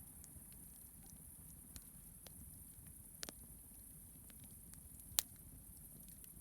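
Campfire crackling: scattered sharp pops and snaps over a low rumble and steady hiss, the loudest pop about five seconds in.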